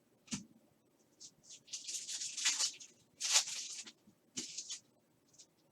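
2022 Select baseball cards sliding and rustling against one another as they are flipped through by hand: a light tap about a third of a second in, then a run of scratchy slides from about one second to near five seconds.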